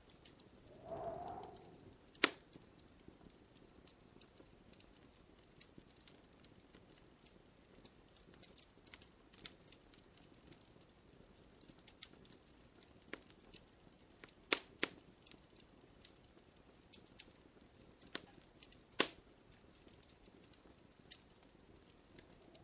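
Wood fire in a fireplace crackling: irregular sharp pops and snaps over a faint hiss, the strongest pops about two seconds in and again near the end. A brief low tone sounds about a second in.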